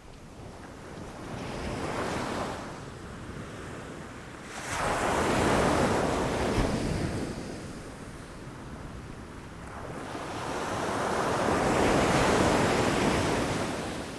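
Ocean waves breaking against rocks, coming in three surges: a small one, then a sudden louder crash about five seconds in, and a long swelling one near the end.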